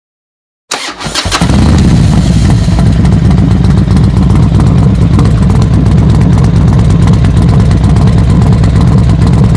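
Motorcycle engine starting under a second in, catching after a brief ragged moment, then running loud and steady with a deep, even exhaust beat.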